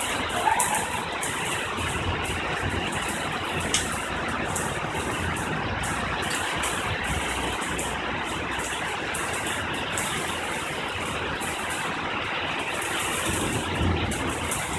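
Steady hiss of heavy rain, with scattered sharp drips and splashes, and a low rumble of thunder building near the end.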